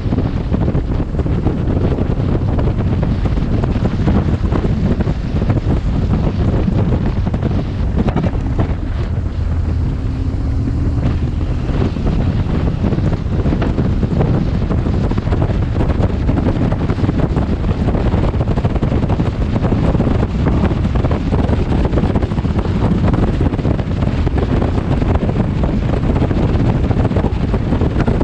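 Wind buffeting a helmet-mounted camera's microphone on a moving motorcycle: a loud, steady rush, heaviest in the low end.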